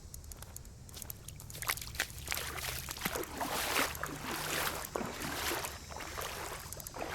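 Legs wading through shallow floodwater, the water sloshing and swishing with each stride. Quieter at first, the splashing steps come in about a second and a half in.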